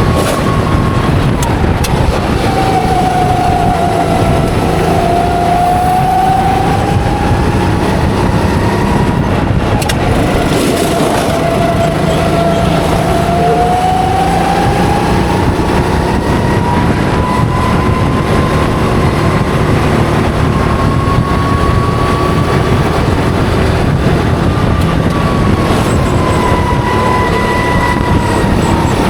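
Go-kart engine running hard on track, its pitch falling as it slows into corners and rising again as it accelerates out, over a steady rush of engine and wind noise.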